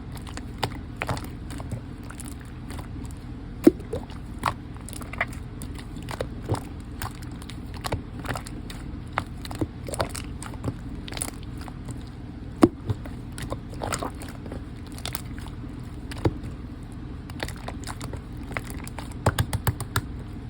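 Cola slime with lotion worked into it being squished and kneaded by hand, giving irregular sticky clicks and pops, a few louder than the rest, over a steady low hum.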